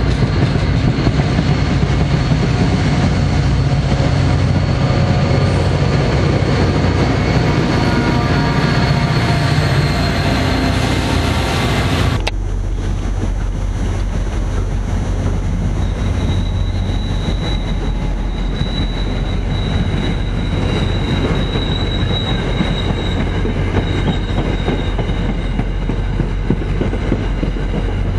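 NJ Transit commuter train coaches rolling past, wheels on rails rumbling with a thin high squeal. About twelve seconds in the sound changes abruptly to another train's steadier, slightly quieter rumble, with a thin high squeal lasting several seconds partway through.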